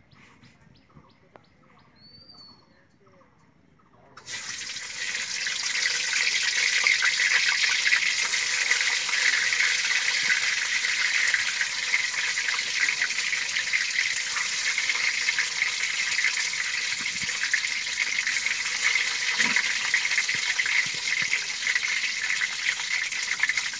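Peeled boiled eggs frying in hot oil in a wok: a sizzle that starts suddenly about four seconds in and goes on steadily with fine crackles.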